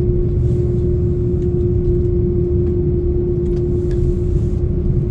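The GE CF6-80 jet engines of an Airbus A330-300 running steadily, heard inside the cabin as a low rumble with a steady hum.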